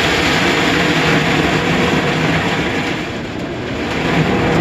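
Automatic car wash machinery running against the car: a loud, steady rush and rumble of water spray and machinery that eases slightly about three seconds in and then builds again.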